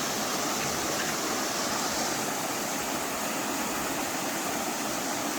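Mountain valley stream rushing, a steady even noise of running water.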